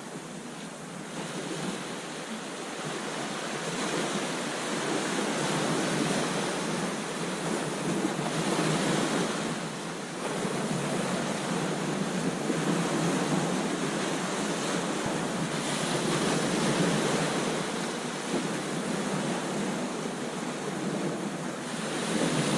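Ocean surf breaking on a beach: a continuous wash of waves that swells and eases every few seconds, with some wind noise on the microphone.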